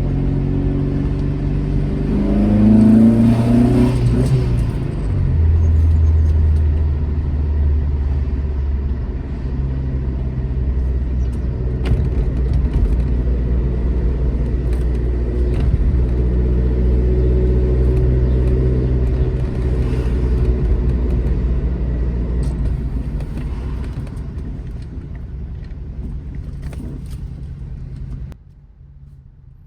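Alfa Romeo GT Junior's twin-cam four-cylinder engine pulling under way: the revs rise about two to four seconds in, drop at a gear change, then hold steady. The sound fades over the last few seconds and drops away sharply near the end.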